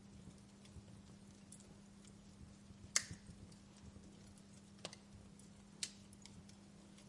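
Fire crackling in a stone fireplace: scattered faint ticks with three sharper pops, the loudest about three seconds in, over a low steady hum.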